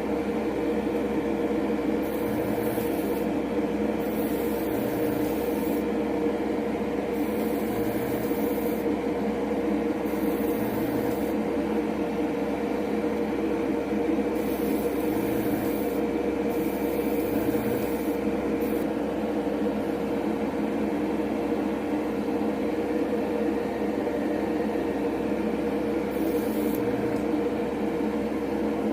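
Small airbrush compressor running with a steady hum, while the airbrush hisses in spurts of a second or two as paint is sprayed.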